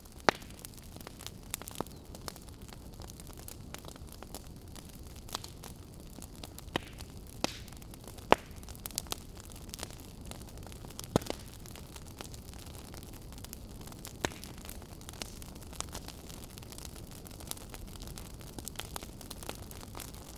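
Wood fire burning: a steady low hiss of flames with irregular crackles and sharp pops from the burning logs, a few pops much louder than the rest.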